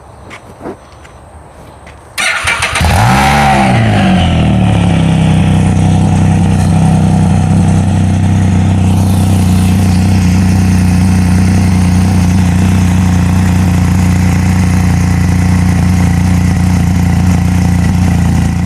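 Can-Am Spyder F3's Rotax 1330 three-cylinder engine, breathing through a one-piece Spyderman Turbo Z exhaust with the catalytic converter removed, starting about two seconds in. Its revs flare up and fall back, then it settles into a steady, loud idle.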